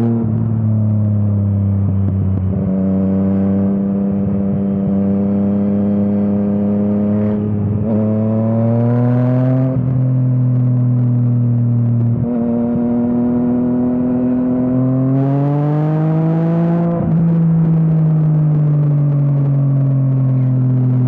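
Yamaha MT-09 three-cylinder engine through an Akrapovič exhaust, ridden on the road. The engine note holds, climbs under throttle and drops sharply at each gear change, several times. There is a harder pull with added rushing noise about two-thirds through, then the note falls steadily as the bike slows near the end.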